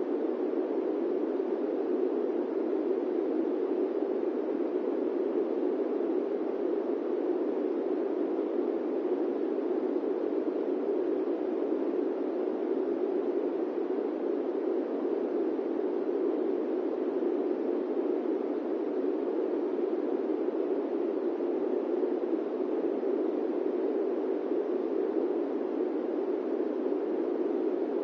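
Steady, unchanging white noise in the style of an airplane cabin's drone, an even rushing sound centred in the low-middle range with no deep rumble.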